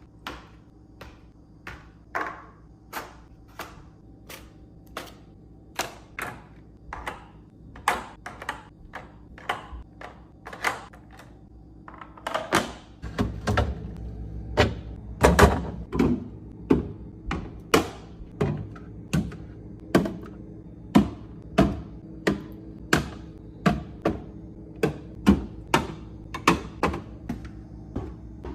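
Food packages and containers being set down and knocked into place while a fridge is restocked: a steady series of thunks and taps, about two a second, over a low hum that grows louder about halfway through.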